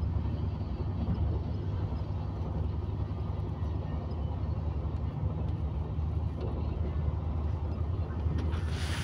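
Steady low rumble of a passenger train running at speed, heard from inside the coach, with a short rushing hiss about eight seconds in.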